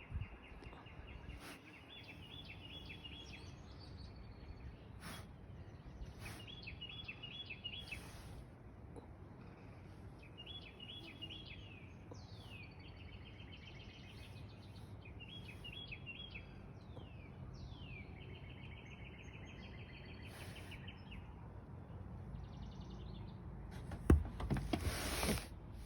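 A bird singing, repeating a short high trilled phrase every few seconds, over a steady low background rumble. Near the end, a loud rustling burst lasting about a second.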